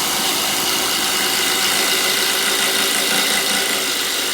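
A DeWalt 12V Xtreme cordless impact driver hammering steadily under load as it bores a hole with a half-inch drill bit.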